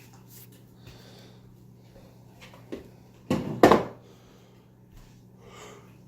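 Two loud clattering knocks close together a little over three seconds in, from dishes being handled and put away while unloading a dishwasher, over a low steady hum.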